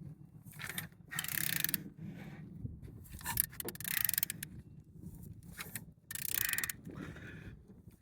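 A ratchet wrench clicking in repeated strokes as a removed car engine's crankshaft is turned over by hand, a pull every two to three seconds. The engine turns freely.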